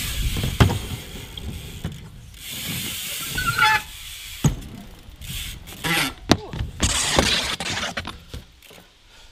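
BMX bike riding a mini ramp: tyres rolling with a rising and falling hiss, with several sharp knocks of the bike on the ramp and a short squeak about three and a half seconds in.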